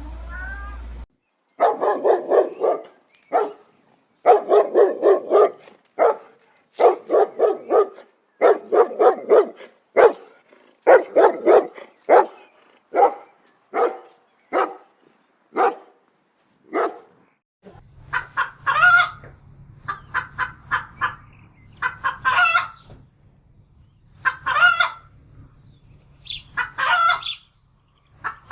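Chickens clucking in quick runs of short calls. After about 17 seconds a steady low hum comes in behind, and a rooster crows several times.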